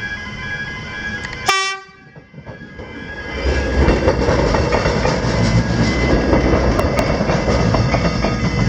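Level crossing warning alarms ringing in steady repeated tones, cut short about a second and a half in; from about three and a half seconds a Melbourne suburban train runs over the crossing, a loud rumble with wheels clattering over the rails.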